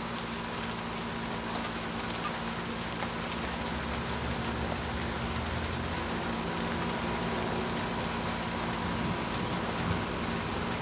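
Steady rain falling during a thunderstorm, an even hiss of drops with no sharp events.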